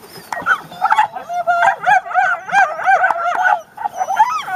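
Labrador retriever puppy whining: a rapid run of short, high-pitched cries that rise and fall, with a brief break about three and a half seconds in.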